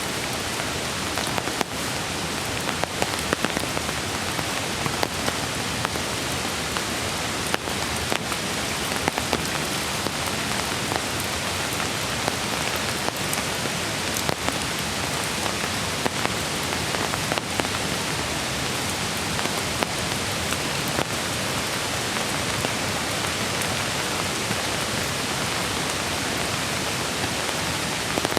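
Steady rain falling in a forest, with frequent sharp ticks of single drops striking close by.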